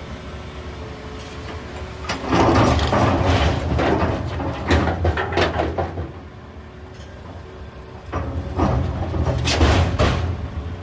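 Volvo EC380EL excavator working rocks under engine load: a steady low engine hum, broken twice by loud stretches of heavy rumbling with rocks clattering and scraping, the first about two seconds in and lasting some four seconds, the second starting near the eight-second mark.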